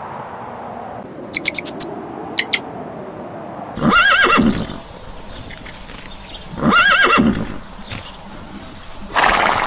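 Horse whinnying twice, each a wavering call under a second long, a few seconds apart. A quick run of sharp clicks comes early on, and a short breathy burst near the end.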